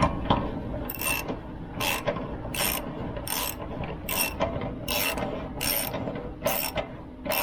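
Ratchet wrench clicking in repeated swings, about one every 0.7 seconds, as the anode rod is screwed into the RV water heater's tank and tightened snug.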